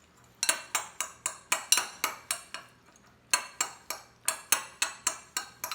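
A utensil clinking against a bowl as cooked elbow macaroni is stirred with butter and seasonings, about four strokes a second, in two runs with a short pause between.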